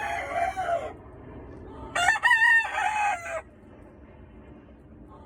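Gamefowl roosters crowing: one crow ends in the first second, then a louder full crow starts about two seconds in and lasts about a second and a half.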